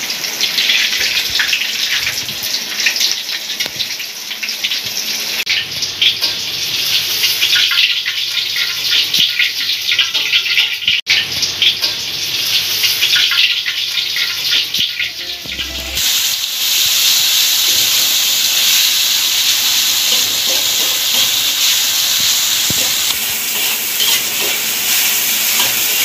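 Ground spice paste sizzling and crackling as it fries in hot oil in a wok, stirred with a spatula. Near the middle the sizzle becomes steadier and louder.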